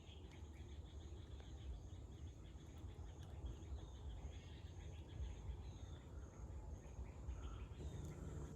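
Quiet forest ambience: an insect chirping in a steady, evenly repeated high pulse, with fainter scattered insect and bird calls and a low rumble.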